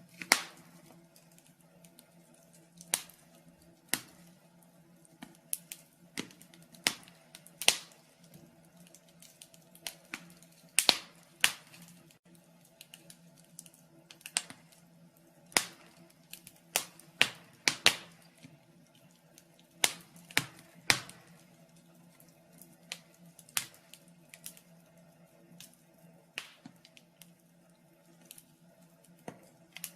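Wood fire in a fireplace crackling: irregular sharp pops and snaps, roughly one a second and varying in strength, over a faint steady low hum.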